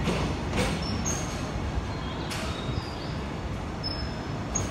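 Empty container flat wagons of a freight train rolling past with a steady rumble and a few clacks of the wheels over the rail joints.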